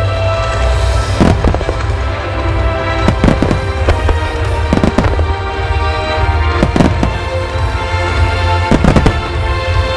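Aerial firework shells bursting in quick clusters of cracks, about five clusters at uneven intervals, over music played on loudspeakers with a heavy bass.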